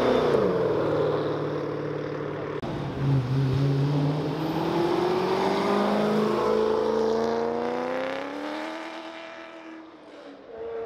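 A car engine accelerating. Its pitch dips briefly at first, then climbs steadily through the middle, and the sound fades away near the end.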